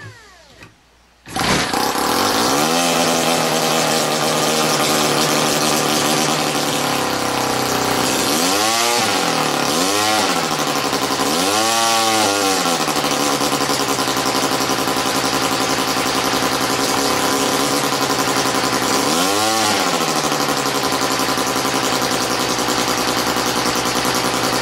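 OS Wankel rotary model aero glow engine catching about a second in and then running at high speed. Its speed swells up and back down briefly four times.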